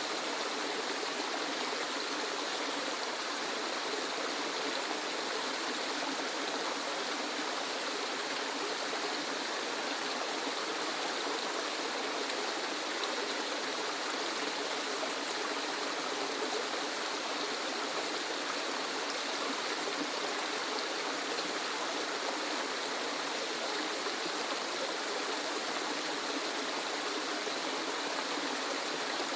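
Waterfall: a steady, unbroken rush of falling water, an even hiss with no deep rumble.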